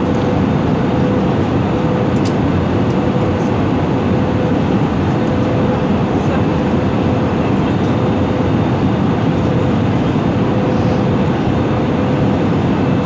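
Steady cabin noise of an airliner in flight, the even rush of engines and airflow with a faint steady tone underneath.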